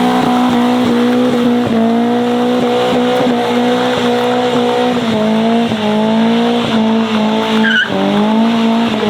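Modified car engine held at high revs with a loud, steady exhaust note, its pitch dipping briefly and climbing again twice, about five seconds and eight seconds in.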